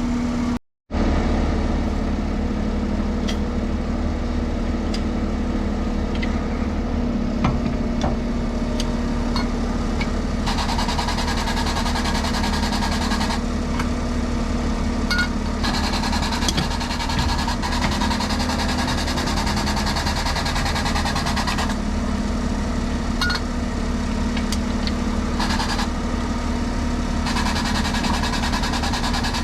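Service truck engine idling steadily, with a higher-pitched mechanical noise that switches on and off several times over it.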